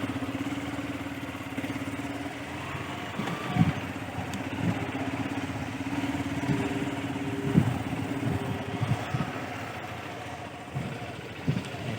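An engine running steadily, with a few short knocks along the way and a second, higher engine note joining for a couple of seconds in the middle.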